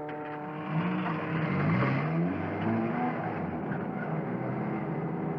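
Cartoon race car engine sound effect: a steady engine drone that wavers up and down in pitch for a couple of seconds, then runs on steadily as the car approaches.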